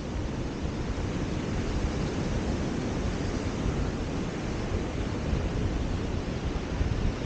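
Steady wind rushing over the microphone, mixed with the wash of surf on a beach.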